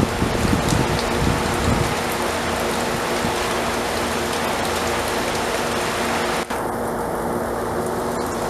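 Heavy rain falling steadily, with low wind gusts buffeting the microphone in the first couple of seconds. There is a brief dropout about six and a half seconds in.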